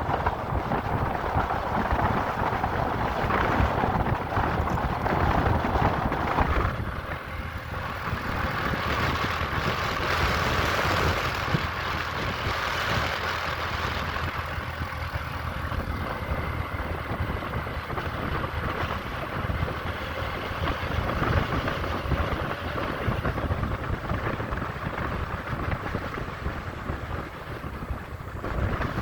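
Motorcycle running along the road, a steady engine and road noise, dipping a little and changing in tone about seven seconds in.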